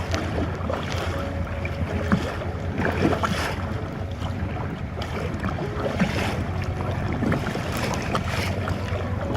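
Kayak paddle dipping and splashing in choppy, wind-whipped water, a stroke every second or so, with wind noise on the microphone.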